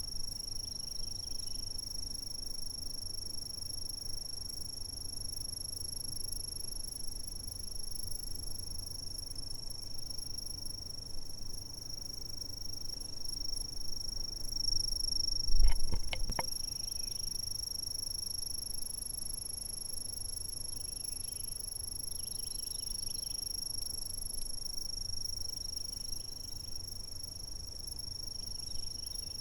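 Insects trilling in one steady, unbroken high-pitched tone, with faint other calls now and then over a low background rumble. About halfway through, a brief low thump stands out as the loudest sound.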